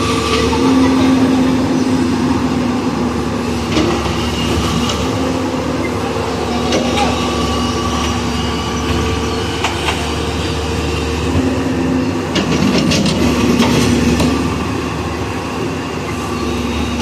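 Heavy machinery diesel engine running steadily, with scattered metallic clanks and knocks from the machine at work.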